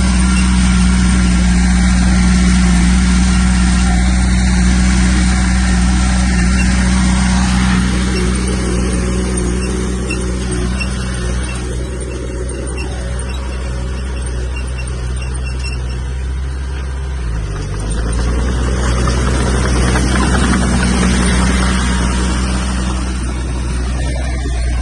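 Heavy earthmoving machine's diesel engine running steadily under load, easing off a little about halfway, then working harder again about two-thirds of the way through.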